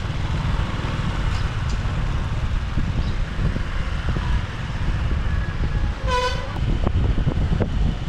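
Steady low rumble of a motorbike ride through city traffic, with one short vehicle horn toot about six seconds in.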